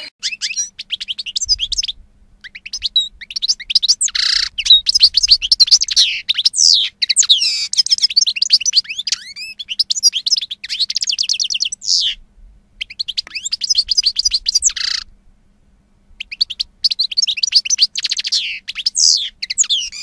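Canaries singing: fast trills and rolling phrases of high, sweeping notes, broken by two short pauses in the second half.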